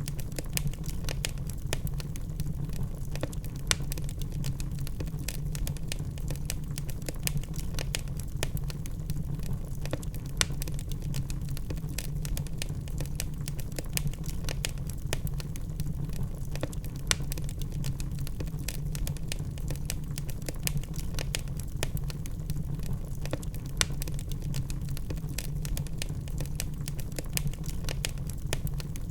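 Wood log fire crackling: frequent small snaps and pops, several a second with an occasional louder one, over a steady low rumble.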